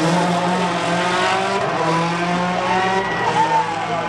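Rally car engine running hard at high revs, its pitch dipping and rising again about three seconds in.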